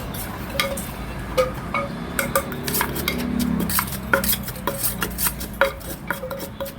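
Kitchen utensils and dishes clinking and knocking, with many irregular sharp clicks, several a second, over a low steady hum.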